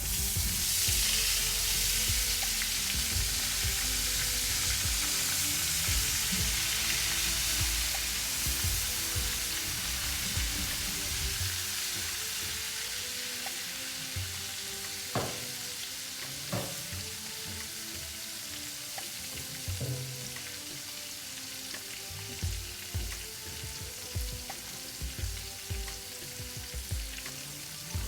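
Food frying in oil in a hot pan: a loud sizzle that starts suddenly as the food goes in, then slowly dies down, with a few knocks of a utensil against the pan in the second half.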